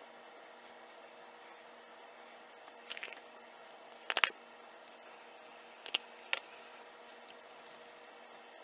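A few brief, soft squishy taps and scrapes, about four of them spread over several seconds, of a spoon spreading whipped topping in a bowl, over a faint steady room hum.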